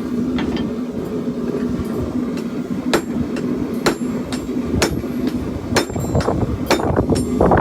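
Hand hammer striking a chopper blade's steel on an anvil during forging, ringing blows about once a second that start about three seconds in, over a steady low hum.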